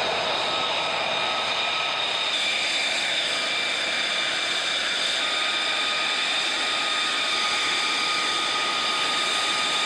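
Fighter jet engine running steadily: a rushing jet noise with several high-pitched whine tones held over it, one of them rising slightly about two and a half seconds in.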